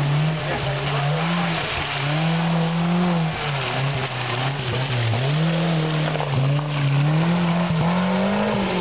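Off-road 4x4's engine labouring up a muddy track, its revs rising and falling again and again as the driver works the throttle, then passing close by.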